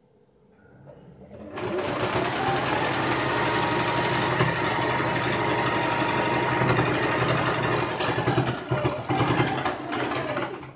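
Sewing machine running steadily, stitching a blouse's side seam down to the waist. It starts about a second and a half in and stops just at the end.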